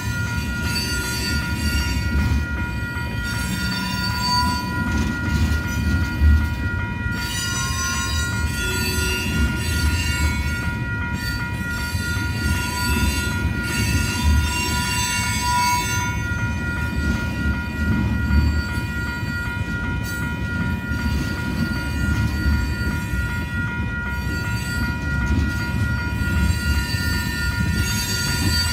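Railroad tank cars of a long freight train rolling steadily past: a continuous low rumble of wheels on rail with thin, sustained wheel squeal. A grade-crossing bell dings steadily over it.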